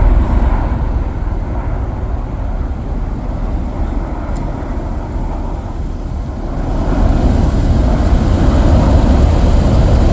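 Marine Corps V-22 Osprey tiltrotors taking off, a deep, heavy rotor and engine rumble. It eases off in the middle and swells again about two-thirds of the way through as the staggered departure goes on.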